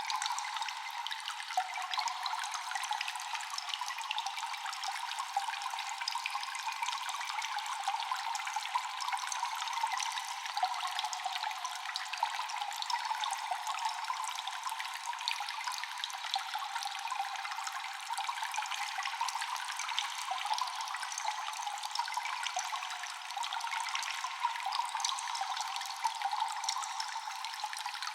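Water dripping and trickling without pause in a cave, many drops landing in quick succession over a steady wash of running water, with echo. The sound is thin, with no low end.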